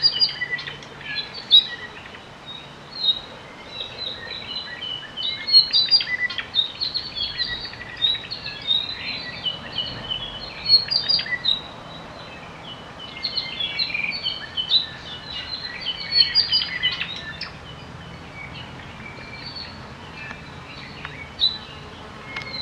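Native Hawaiian forest birds singing and calling together, a busy chorus of short chirps, trills and whistles that comes in bouts and thins out a couple of times.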